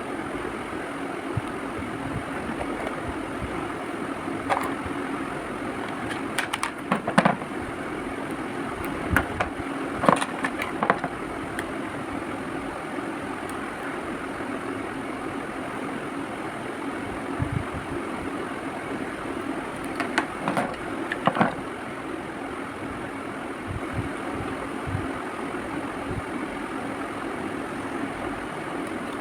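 Sunglasses being handled: scattered clicks and taps in small clusters, over a steady background hum and hiss.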